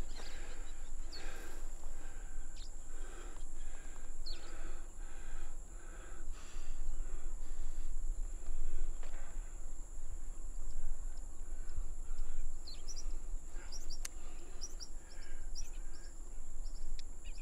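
Outdoor nature ambience: birds giving short chirps, more often in the second half, over a steady high insect drone and a low rumble of wind.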